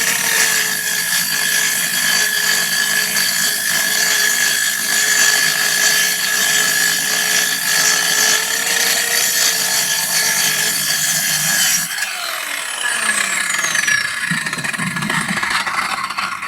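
A motor-driven machine running steadily at a constant high speed, then spinning down with a falling pitch about twelve seconds in.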